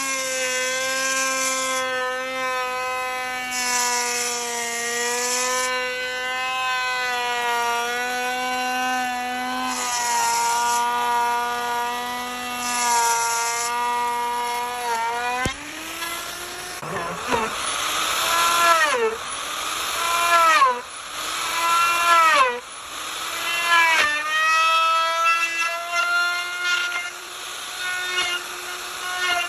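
A high-speed power tool motor whining at a steady pitch, with bursts of cutting noise as it works wood. In the second half its pitch repeatedly drops and recovers, about every second or two, as the cut loads and then frees the motor.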